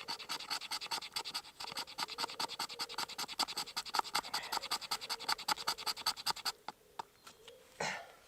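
The squared 90-degree spine of a knife scraping rapidly along wood, raking off fine tinder shavings, about eight strokes a second. The scraping stops about six and a half seconds in, followed by a few single scrapes and a short breathy rustle near the end.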